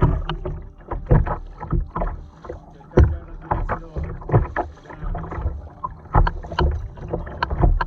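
Kayak paddle blades dipping and splashing in the water, a quick irregular series of strokes and drips.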